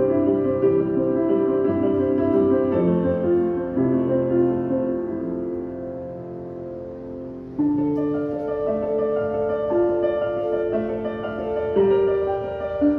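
Piano playing a slow piece: held chords slowly fading, then a new loud chord struck about seven and a half seconds in.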